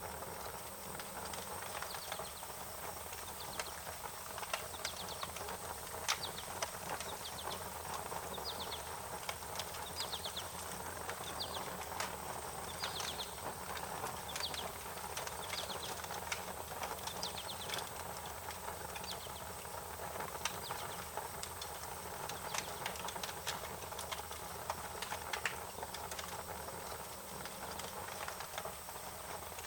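Wood fire crackling, with frequent sharp pops over a steady hiss, and short high chirps repeating in the background.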